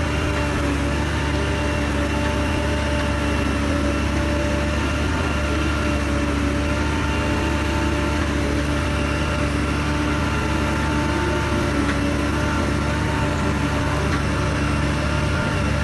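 Heavy diesel earth-moving machine engine running steadily at an even pitch.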